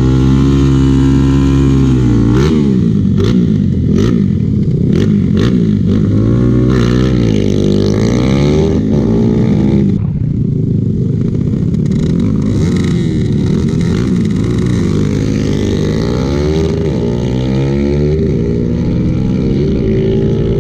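Motorcycle engines revving hard: the engine note is held high at first, then climbs and drops again and again as the bikes accelerate through the gears, and the sound changes character about halfway through.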